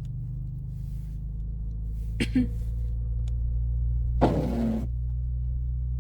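2024 Mustang EcoBoost's turbocharged four-cylinder running at low revs, a steady low hum heard inside the cabin. Two brief sharp noises come through about two seconds and about four seconds in.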